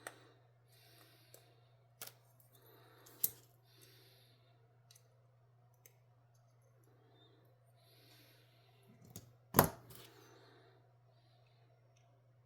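Small hard clicks and taps of folding-knife parts and a small tool being handled, with soft rustling between them; the loudest clack comes near the end. A steady low hum runs underneath.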